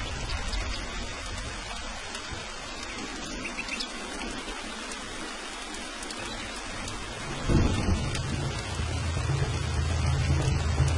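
Steady rain with thunder. A low rumble fades away early, then a sudden thunderclap about seven and a half seconds in starts a fresh roll of thunder that carries on to the end.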